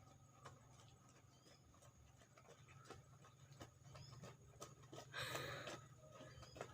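Near silence: faint background hum with a few light clicks, and a short rush of noise about five seconds in.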